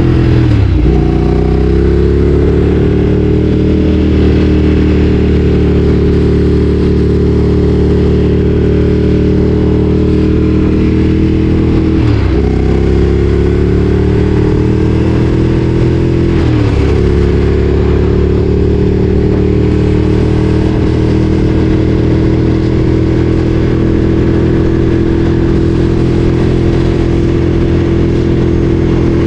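Ducati Streetfighter 848's L-twin engine running under way at a steady pitch. Three times, near the start, about 12 seconds in and about 17 seconds in, the revs drop sharply and climb back within a second or two.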